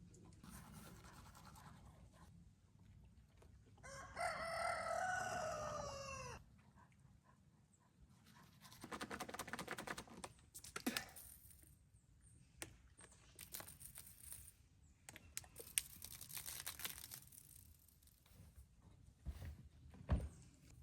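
A rooster crows once, a single long call falling in pitch, about four seconds in. After it come short bursts of scrubbing as teeth are brushed with a toothbrush.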